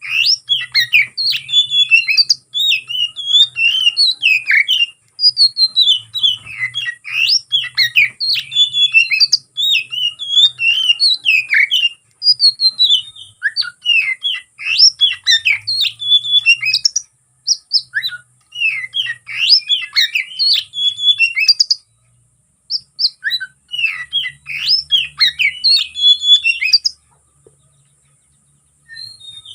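Oriental magpie-robin (kacer) singing its fast, agitated 'konslet' fighting song: rapid runs of sharp chirps and whistled notes sweeping up and down, in long bursts with short breaks and a gap of a couple of seconds near the end.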